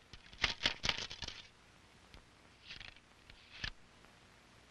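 Wooden ramrod ramming a patched lead ball down a flintlock rifle barrel onto the powder charge: a quick run of knocks and scrapes for about a second and a half, then two more short knocks a little later.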